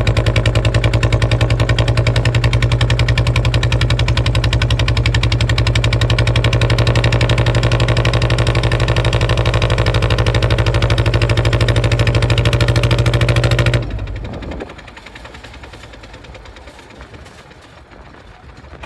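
Kubota ZT155 single-cylinder diesel engine running steadily with a fast even chug. About 14 seconds in it is shut off and runs down within about a second, leaving only faint background sound.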